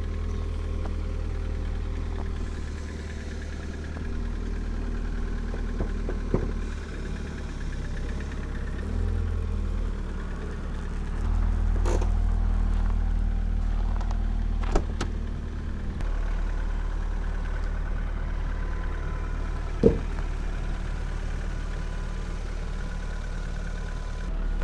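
Citroën Xsara's engine idling steadily, running louder for about five seconds midway, with a few short knocks or clicks.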